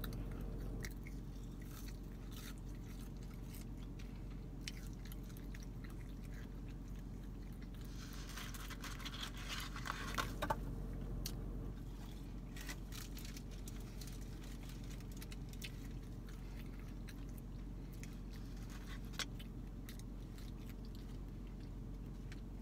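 Close-up chewing and crunching of McDonald's french fries, with scattered small clicks and a louder stretch of crunching about eight to ten seconds in, over a steady low hum.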